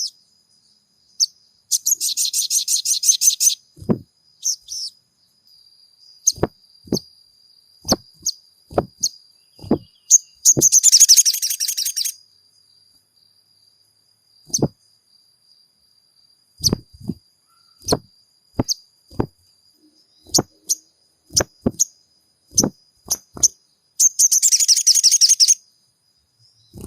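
Sogon bird calling: three fast, high rattling trills of a second or two each, with scattered sharp single chip notes between them. A faint steady high whine runs underneath.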